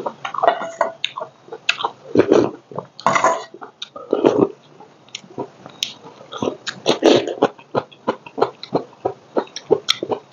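Close-miked eating sounds: wet chewing, lip smacks and small mouth clicks as a man eats rice and sliced tomato by hand, with a few louder, short, low mouth or throat sounds mixed in.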